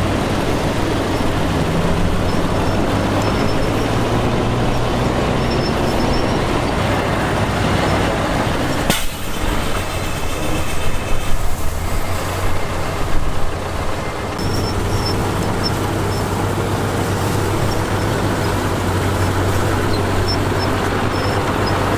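Heavy diesel earthmoving machinery running steadily with a low drone. About nine seconds in the sound changes abruptly, and for a few seconds there are irregular louder noises before the steady engine drone returns.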